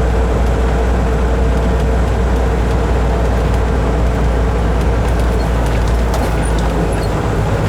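Kenworth truck's diesel engine and road noise, heard inside the cab while driving: a steady low drone, its note shifting near the end.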